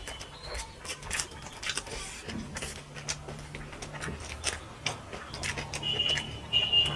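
Eating sounds: chewing and mouth noises with scattered clicks and taps, as fish curry and rice are eaten by hand from plates.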